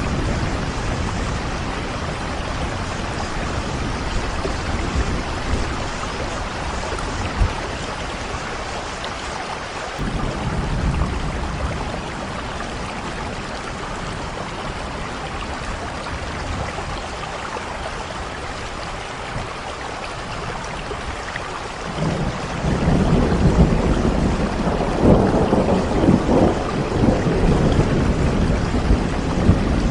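Steady rain falling, an even hiss with a low rumble beneath. About two-thirds of the way through, a long roll of thunder builds and rumbles on to the end.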